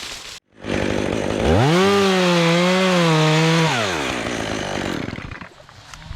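Two-stroke chainsaw revved up to full throttle, held there for about two seconds with its pitch wavering slightly, then let back off.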